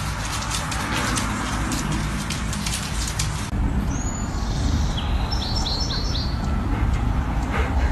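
A bird chirping: one short high call, then a quick run of about four chirps, over a steady low outdoor rumble. Before that, a dense run of sharp clicks that cuts off suddenly.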